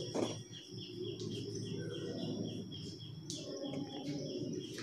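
Small birds chirping: a quick run of repeated high chirps, about four a second, over a faint steady high note, with faint scratches of chalk on a blackboard.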